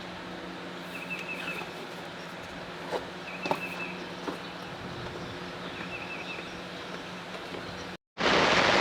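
Quiet outdoor ambience with a steady low hum, a few clicks and short repeated chirps, then after a brief cut near the end, steady rain comes in much louder.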